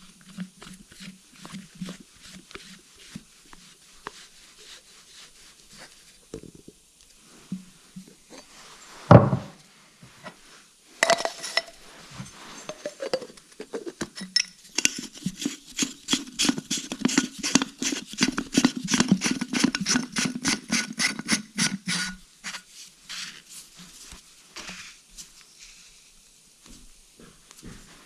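Workshop bench handling during an air leak test of a plastic fuel filter bowl. There are light clinks and knocks, a thump about nine seconds in, and a short burst of compressed air from a blowgun about two seconds later. Then comes about seven seconds of rapid, repeated clicking with hiss.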